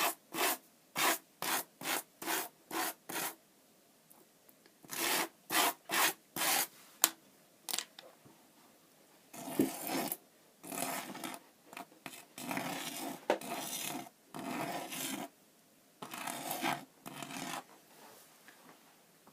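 Sand being rubbed and swept by hand across a drawing surface while a sand animation is drawn. It starts as short quick strokes, about two a second, and after a pause turns into longer rubbing strokes.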